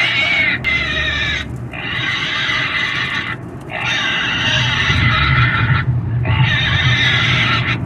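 Pig squealing loudly in a series of about four long, shrill screams, each lasting one to two seconds, with brief breaks between them.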